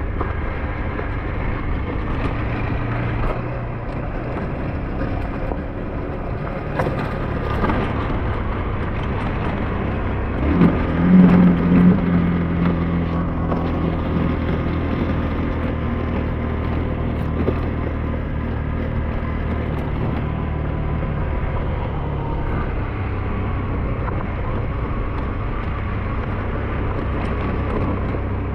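SYM NH T 200 scooter engine running steadily while being ridden, with the engine note rising and getting louder for a couple of seconds about ten seconds in.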